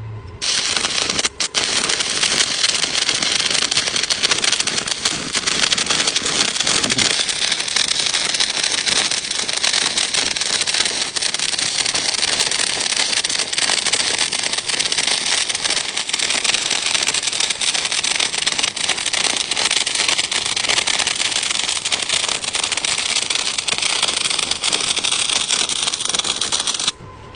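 Shielded metal arc (stick) welding with an E7018 electrode on a root pass: the arc crackles steadily and continuously. It strikes suddenly just after the start and breaks off abruptly near the end.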